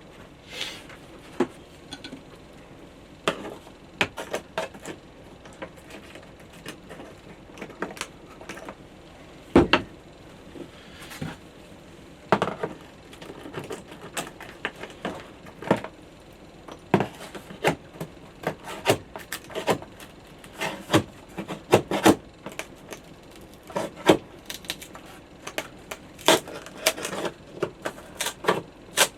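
Irregular knocks, taps and scrapes of glued, pinned wooden door stops being pried and worked off a veneered wooden wall, with one louder knock about a third of the way through.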